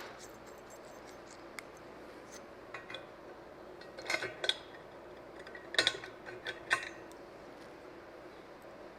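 Scattered light metal clinks and rattles of bolts, washers and nuts being handled and fitted on a steel engine stand, coming in small clusters about four, six and seven seconds in.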